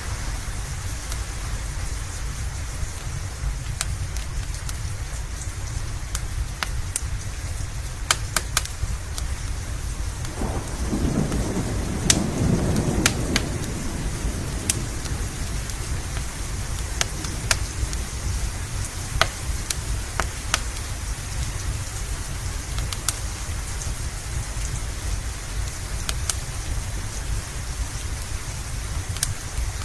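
Steady rain with scattered sharp crackles and pops from a wood fire, and a roll of thunder that swells about ten seconds in and fades over a few seconds.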